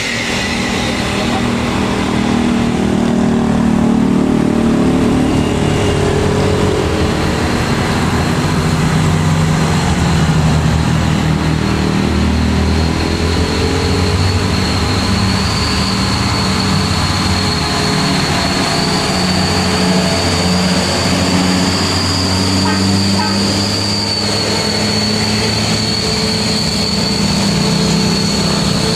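Heavy truck's diesel engine running under load on a climb: a steady low drone with its pitch shifting slowly, and a thin high whine over it from a few seconds in.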